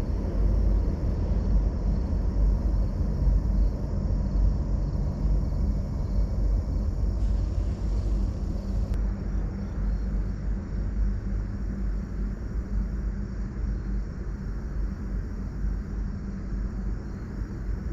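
A passing train rumbling low and steady, slowly fading as it moves away.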